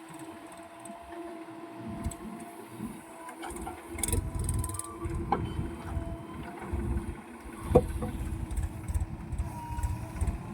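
Heavy machine engine running steadily, with an uneven low rumble that grows louder about three and a half seconds in. A sharp knock comes near the eight-second mark.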